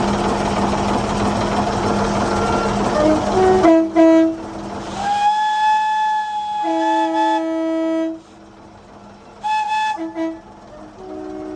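Steady steam hiss with a low hum on a locomotive footplate, then, from about four seconds in, a locomotive sounding a series of clear warning blasts at several different pitches, some long and some short.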